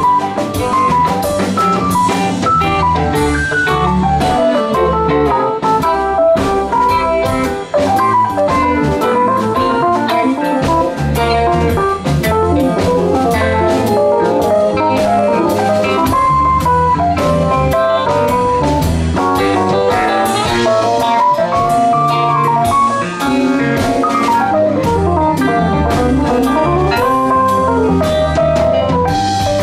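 Live rock band playing an instrumental passage: melodic lead lines over electric bass, drum kit and keyboards.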